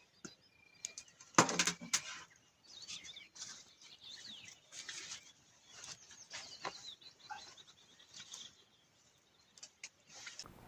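Small songbirds chirping and calling, many short, quick notes and brief gliding whistles. A loud, brief rustling noise about a second and a half in stands out above them.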